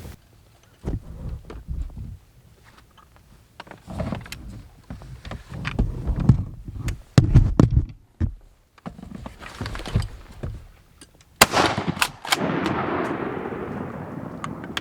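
Shotgun fire at ducks: a sharp loud blast about three-quarters of the way in, with a few more cracks close behind it and a long echo fading away afterwards. Before it, scattered knocks and dull thumps.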